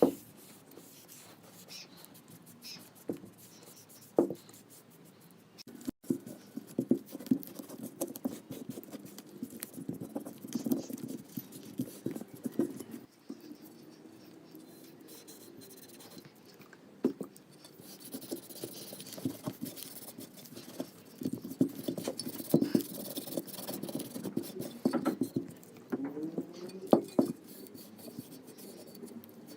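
Irregular scraping and rubbing with scattered light clicks and knocks, from hand work on metal gun parts.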